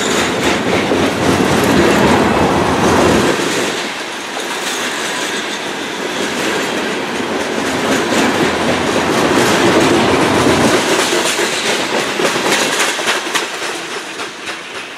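Loaded coal hopper cars of a freight train rolling past close by, steel wheels clicking over the rail joints. The sound fades near the end as the last car goes by.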